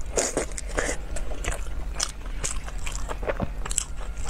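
Close-miked biting and chewing of soft braised pork, an irregular run of wet clicks and smacks from the mouth.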